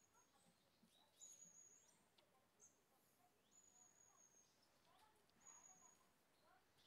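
Near silence with faint, high bird chirps repeating every second or so.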